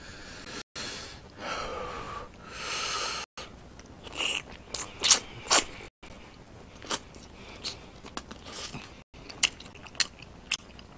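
Close-miked eating: chewing and lip smacks on spicy braised chicken, with short sharp clicks and two breathy exhales in the first few seconds. The audio cuts out completely for an instant several times.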